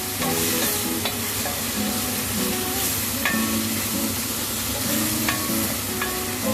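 Chopped broccoli and butternut squash sizzling in olive oil and butter in a pan while being stirred.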